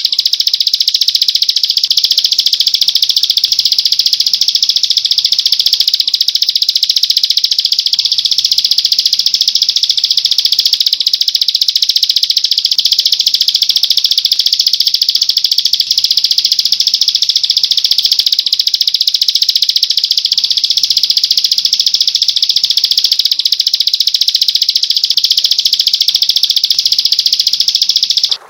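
A songbird's loud, high-pitched rapid trill, held unbroken and cutting off suddenly near the end.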